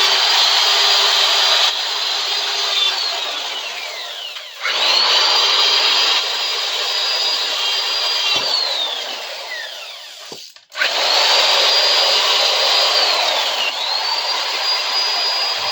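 Handheld power tool running at high speed with a high motor whine and a grinding rasp as it works flaking chrome plating off a steel bar clamp. Three times it is switched off, winds down in pitch and starts up again.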